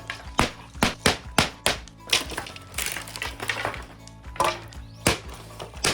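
A quick, irregular series of sharp knocks and clatters, about two or three a second, over steady background music.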